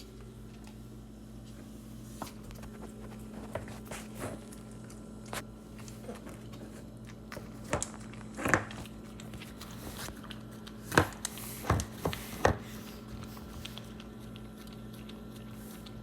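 A dog licking and gnawing at a frozen dog treat: scattered small wet clicks, then a handful of sharp, loud knocks of teeth on the hard treat about halfway through. A steady low hum runs underneath.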